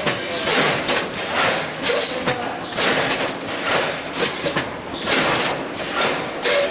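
Automatic packaging machine running, its mechanism clattering through a stroke about once a second.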